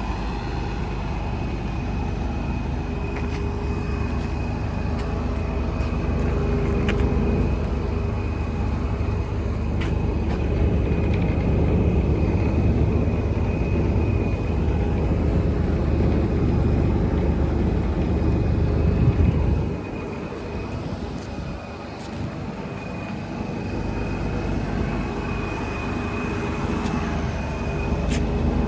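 Diesel engine of a Scania R 124 6x4 truck running with a thin steady high whine over it. It grows louder over about twenty seconds, drops suddenly, then builds again.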